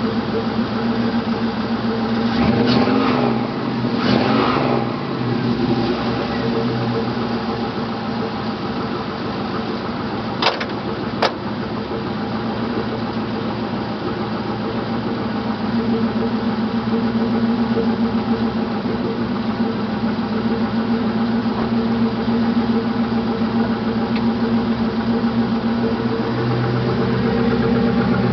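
Chevrolet LS1 5.7-litre V8 in a Honda S2000 idling, with two quick revs a few seconds in. About ten seconds in come two sharp knocks, the hood being shut, and the V8 then idles steadily on.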